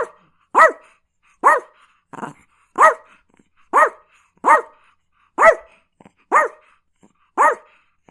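A dog barking repeatedly, about ten sharp barks at roughly one a second, each rising and then falling in pitch.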